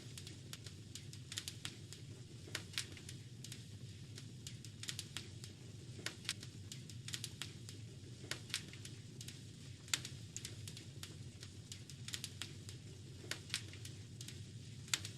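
Wood fire crackling in a fireplace: irregular sharp pops and snaps, sometimes several close together, over a low steady rumble.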